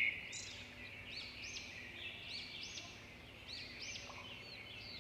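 Several wild birds singing and chirping, with quick overlapping notes that arch up and down, over a steady high-pitched background drone.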